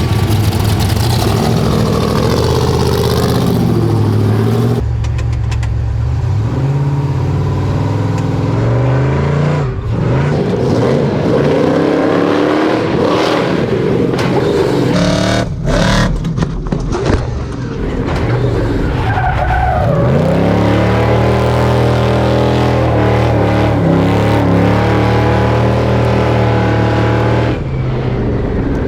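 Prerunner race truck being driven hard, its engine revving up and down repeatedly in rising and falling sweeps.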